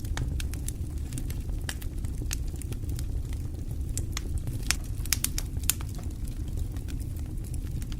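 Wood fire burning in a fireplace: a steady low rumble of the flames with irregular sharp crackles and pops, a cluster of louder pops about five seconds in.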